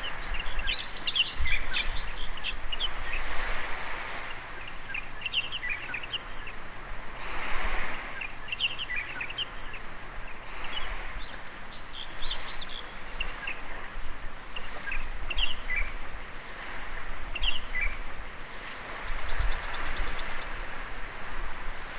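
Small birds chirping and twittering over gentle waves washing in and out on the shore, the surf swelling and easing every few seconds. Near the end a bird gives a quick run of about six high chirps.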